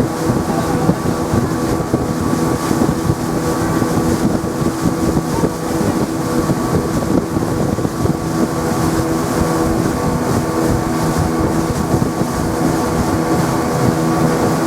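Passenger boat under way, heard on board: its engine runs steadily with a constant hum, over a continuous rush of wind and water noise.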